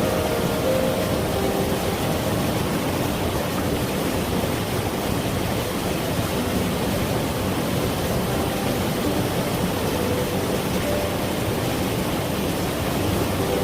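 Steady rush of a mountain valley stream flowing over rocks, with a few faint, soft musical notes underneath.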